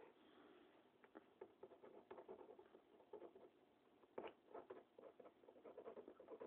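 Faint, scattered small taps and rustles of hands handling model railroad track pieces and crossing ties, growing busier near the end.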